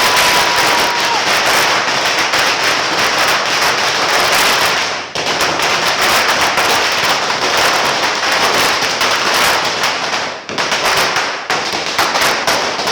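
A long string of firecrackers (a 5000-shot ladi) going off in a dense, rapid crackle, with a few brief lulls from about five seconds in.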